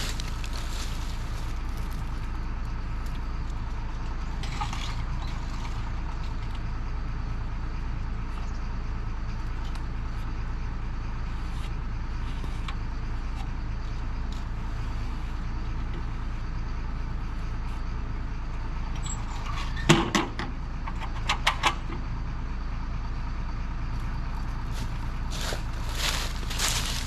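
Heavy diesel engine running steadily with a low rumble. About two-thirds through come one sharp knock and then a few short metallic clanks.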